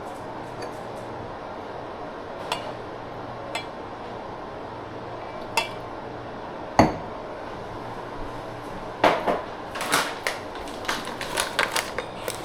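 Kitchen clatter of dishes and cooking utensils: a few scattered clinks and knocks, one louder knock about seven seconds in, then a quick run of clattering from about nine seconds.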